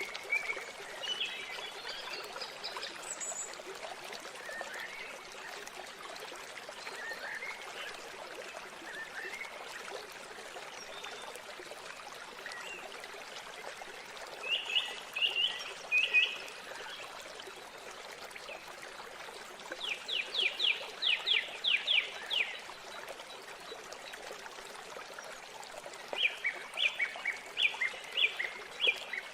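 Steady rush of falling water, with birds calling over it: scattered chirps, then about halfway through a quick run of short sweeping notes repeated about four times a second, and another repeated run near the end.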